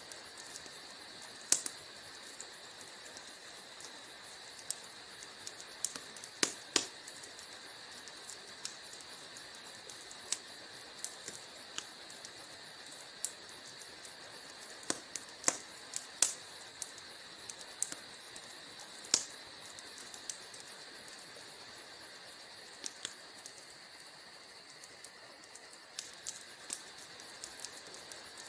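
Wood fire crackling in a fireplace: a steady soft hiss with scattered sharp pops and snaps at irregular intervals.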